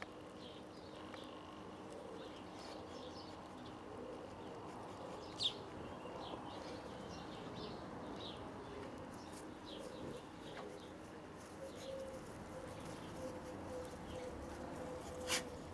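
Small birds chirping in short, high chirps that repeat every second or so, two of them louder and sharper, about five seconds in and near the end, over a faint steady hum.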